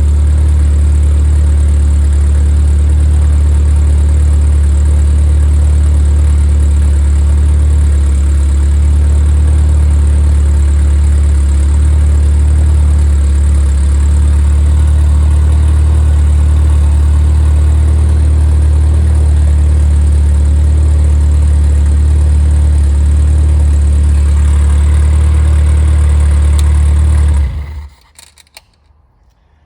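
Freshly rebuilt Triumph Spitfire 1500 inline four-cylinder engine, with raised compression and a 270 cam, idling steadily when warm, then shut off, cutting out suddenly near the end.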